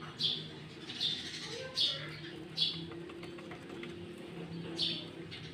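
Sooty-headed bulbul (kutilang) calling: five short, sharp, downward-slurred notes spaced about a second apart, with a longer gap before the last.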